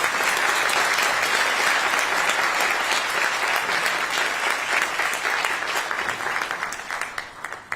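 Audience applauding steadily, a dense clapping of many hands that fades away near the end.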